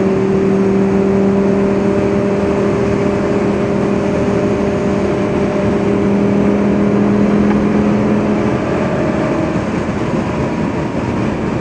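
Lamborghini Gallardo's V10 engine holding a steady note at high motorway speed, over a haze of wind and tyre noise. About eight and a half seconds in, the engine note eases off and drops away.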